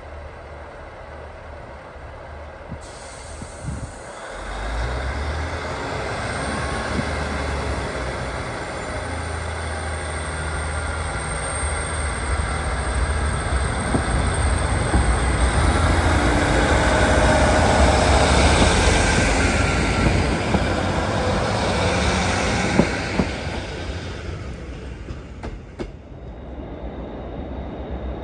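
A train going through the station: its heavy rumble builds about four seconds in, holds and grows, then dies away near the end. A faint high whine runs through the middle, and a few sharp clicks come late on.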